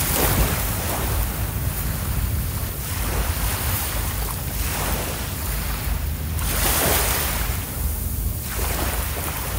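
Sea waves washing onto a beach in slow surges, with wind buffeting the microphone in a heavy low rumble.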